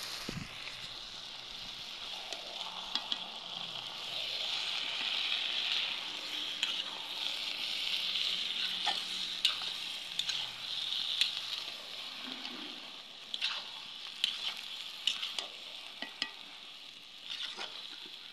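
Chopped leafy greens sizzling in hot oil in a large black iron karahi, stirred with a metal spatula that scrapes and clicks against the pan now and then. The hiss is steady and swells for a few seconds in the middle.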